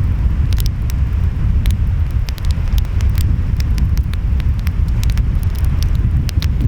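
Wood fire crackling, with frequent sharp pops and snaps scattered irregularly, over a steady deep rumble of wind and ocean waves.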